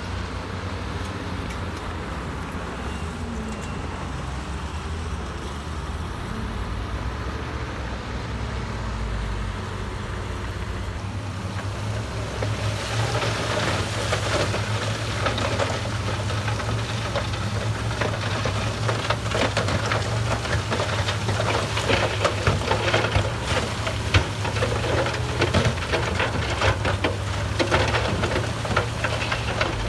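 Heavy diesel earthmoving machinery running with a steady low engine hum. From about a third of the way in it grows louder, with dense clattering and rattling.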